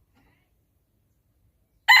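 Rooster crowing: after a quiet stretch, the first loud note of a crow breaks in just before the end.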